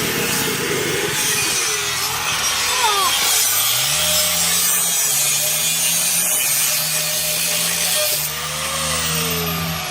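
Power saw cutting through a car's steel exhaust pipe to remove the muffler: a steady, loud, rasping cut. A steady low engine hum joins about four seconds in.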